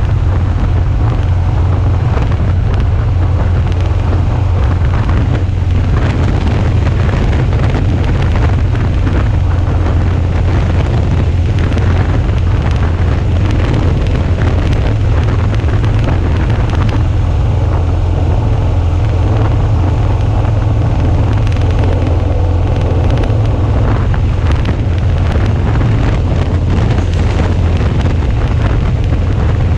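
Wind rushing over an action camera's microphone on a moving Suzuki V-Strom 650, with the bike's 645 cc V-twin engine running steadily at cruising speed underneath. The low rumble is loud and even throughout.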